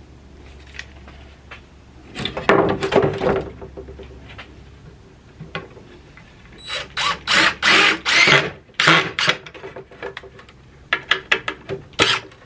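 Power drill driving large screws into pallet wood, in stop-start bursts: one about two seconds in, a longer run of bursts in the middle, and several short quick pulses near the end.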